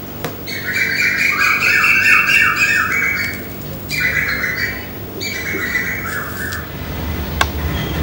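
A bird calling in three bouts of quick, repeated pitched notes, the first and longest lasting about three seconds. A single sharp click follows about seven seconds in.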